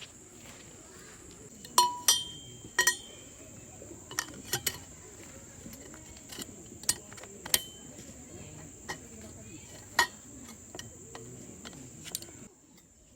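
Hard metal-and-glass camp gear knocking and clinking as it is handled: about a dozen sharp clinks, the loudest few ringing briefly. Behind them runs a steady high-pitched insect drone, which cuts off abruptly near the end.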